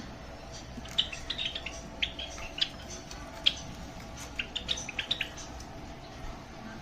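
Java sparrows chirping: short, sharp high chirps in quick clusters through the middle of the stretch, over a faint steady hum.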